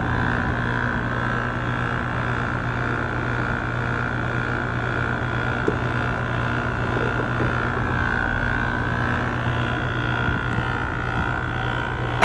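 Heat pump outdoor unit running: a steady low hum under a loud high whine that wavers slightly partway through, then cuts off abruptly.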